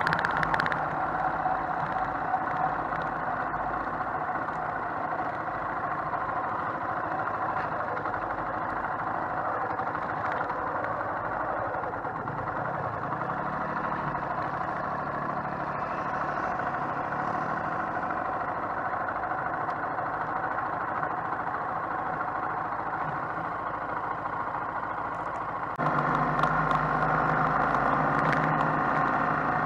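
Motorcycle engine running as the bike rides along, steady apart from a rise and fall in pitch in the middle. About 26 s in it becomes suddenly louder, with a stronger low engine note.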